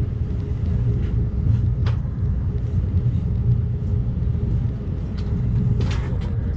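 Amtrak Cascades Talgo passenger train running at speed, heard from inside the car: a steady low rumble of wheels on rail with a faint hum, a brief click about two seconds in and a short burst of clicks about six seconds in.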